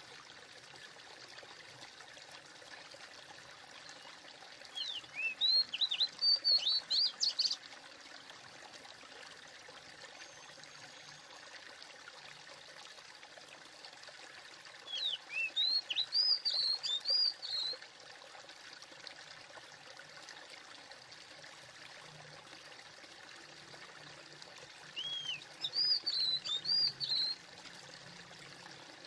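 A bird sings three bursts of quick rising and falling chirps, each a couple of seconds long and about ten seconds apart. Under it is a steady rushing hiss like flowing water.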